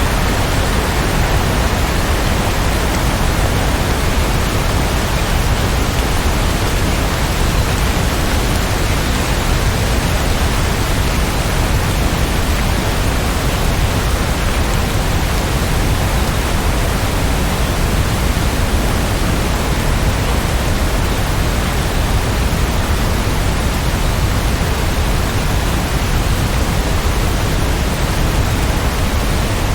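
Steady heavy rain falling, a dense even hiss with no separate drops or changes.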